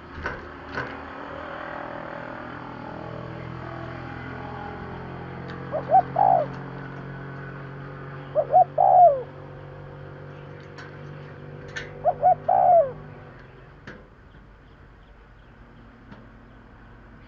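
Spotted dove cooing: three phrases a few seconds apart, each two short coos followed by a longer coo that falls at its end. A steady low hum runs underneath and fades out near the end.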